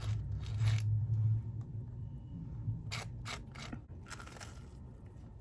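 A few short scraping, rustling strokes, as of objects being handled, over a low rumble in the first second or so.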